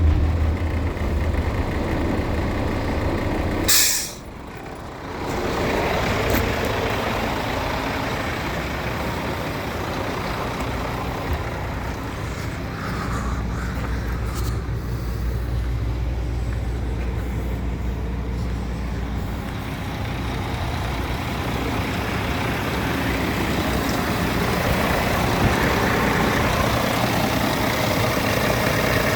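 Scania P410 dump truck's diesel engine running steadily, with one short, sharp hiss of air-brake air released about four seconds in.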